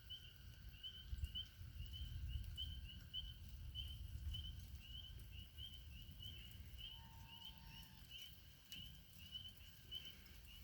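Spring peepers calling at the pond, short high rising peeps about three a second, over a low rumble of distant thunder in the first half.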